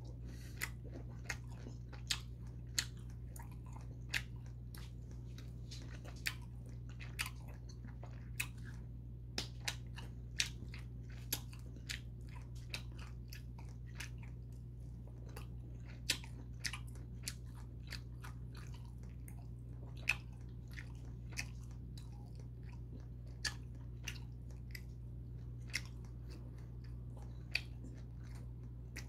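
A person chewing a piece of ripe kimchi close to the microphone: irregular soft crunches and wet mouth clicks over a faint steady low hum.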